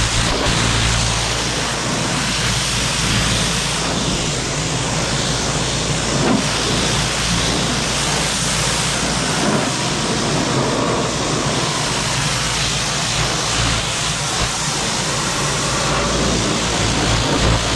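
Pressure washer spraying water onto a tractor, a steady loud hiss of spray over the low, even hum of the washer running.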